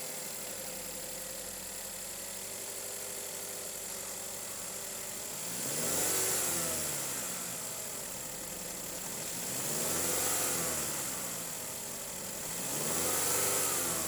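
2012 Buick Regal eAssist hybrid's 2.4-litre four-cylinder engine idling steadily, then revved three times, each rev rising and falling back to idle, roughly four seconds apart.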